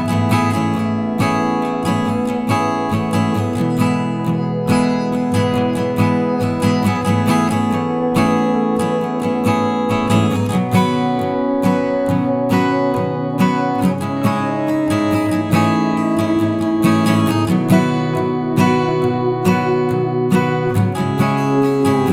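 Background music played on acoustic guitar, plucked and strummed in a steady flow of notes.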